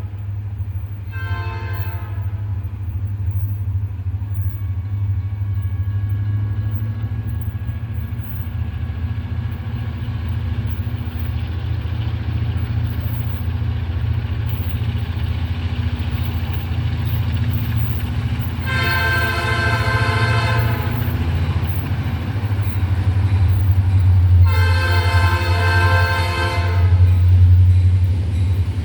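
Diesel freight locomotives rumbling steadily and growing louder, sounding a multi-note air horn: a short blast about a second and a half in, then two long blasts later on.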